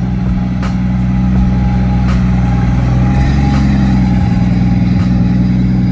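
Toyota Supra's engine running steadily, a loud even hum that rises slightly in pitch midway.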